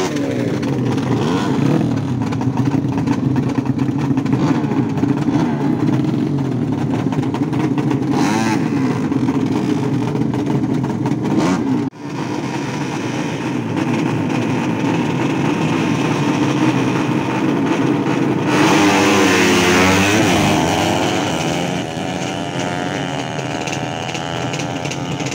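Racing motorcycle engines running at high revs, with a brief sudden drop near the middle and a rising and falling sweep in pitch about three-quarters of the way through as revs change.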